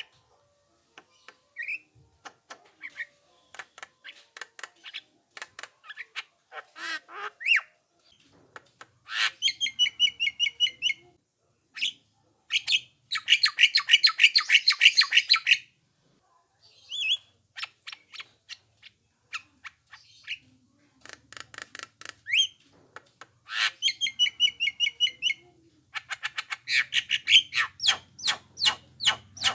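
Javan myna (jalak kebo) singing in full chatter: fast rattling runs of harsh notes, several seconds long, broken by short whistled and slurred calls.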